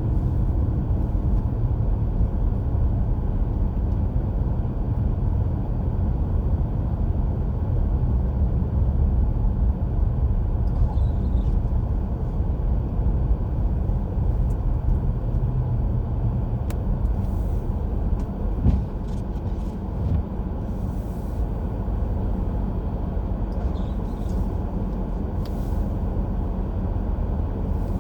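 A car driving on a snowy road: a steady low rumble of tyres and engine, with a couple of brief knocks a little past halfway.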